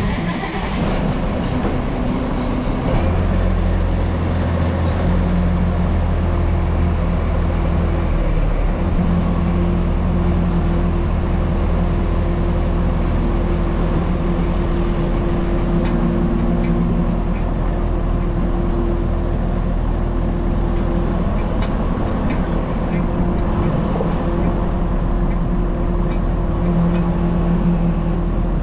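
Tractor engine running steadily at a constant speed, with a low hum that steps up slightly about three seconds in.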